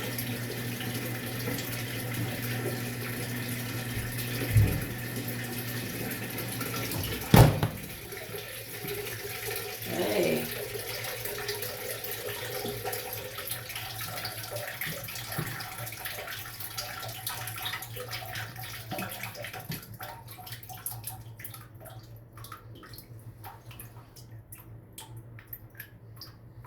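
Maytag MVWX655DW1 washing machine filling, a steady hiss of running water with a low hum. There is a thump about four and a half seconds in, and a loud clack about seven seconds in, after which the hum and the strong flow stop. Quieter trickling and scattered drips follow in the tub.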